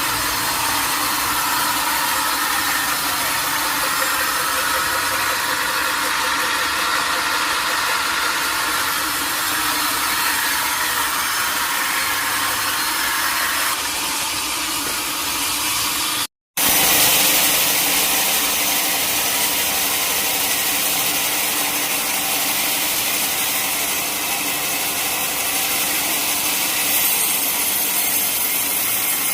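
Sawmill saw running steadily as it cuts through a teak log, with the machine's motor running underneath. The sound drops out for a split second a little past halfway, then carries on unchanged.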